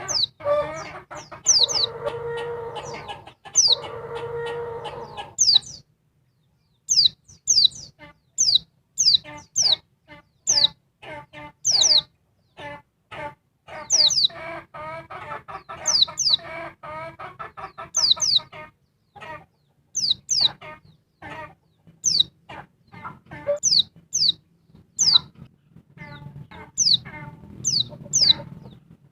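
Female white-eye (pleci) calling: a long run of sharp, high chirps that fall in pitch, repeated again and again, over lower rapid chattering calls. Near the start two longer, lower stretches of buzzy, pulsing calls are heard.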